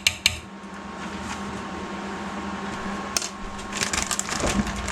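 Kitchen handling sounds as chicken tenders go into a bowl of batter: a few clicks near the start, one more click a little after three seconds, and a burst of rustling and clinking about four seconds in. A steady appliance hum runs underneath.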